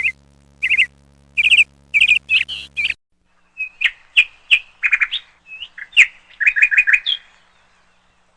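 Small birds chirping in short, repeated high calls. About three seconds in the sound cuts abruptly, and a faster run of chirps follows. It falls to near silence about a second before the end.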